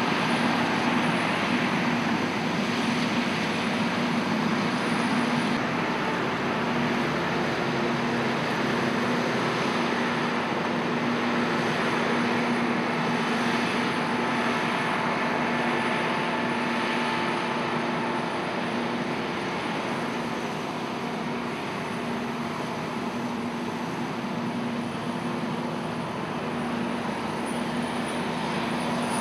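Harvest machinery running steadily at work: a continuous diesel drone with a steady hum, easing slightly in the second half.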